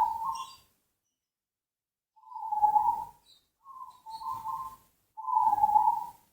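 Zebra dove (perkutut) cooing: a run of short, rolling cooing phrases on much the same pitch, repeated every second or so with brief silences between.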